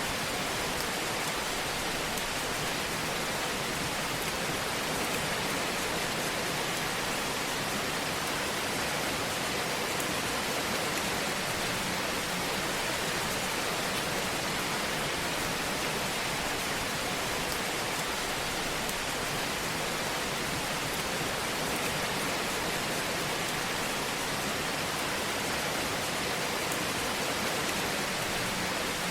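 Fire burning in a fireplace: a steady hiss with faint, scattered crackles.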